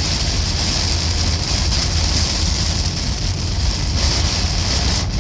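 Storm wind buffeting the microphone, a steady low rumble, over an even hiss of rain.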